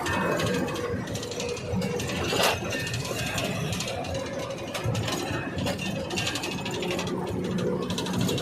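Continuous mechanical clicking and rattling, with a brief louder clatter about two and a half seconds in.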